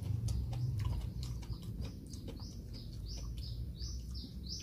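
A bird calling: from about halfway, a run of about six short high notes, each falling at its end, roughly two a second. A few light clicks come before it.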